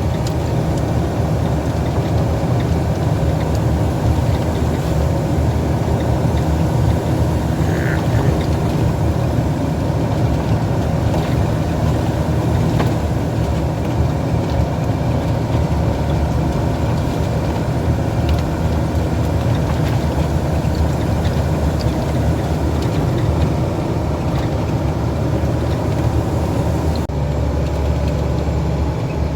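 Heavy truck's engine running steadily with road noise, while driving.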